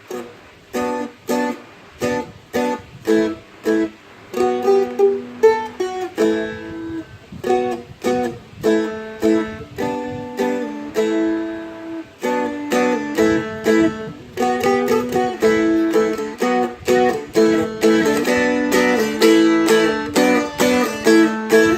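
Seagull Merlin M4, a four-string strumstick, strummed and flatpicked in a steady rhythm, playing quick chord changes with melody notes. The strums come in separate strokes at first, then get denser and more continuous about halfway through.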